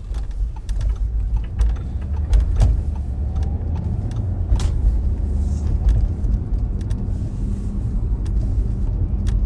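Car interior road noise while driving: a steady low rumble from the engine and tyres, with a few light clicks.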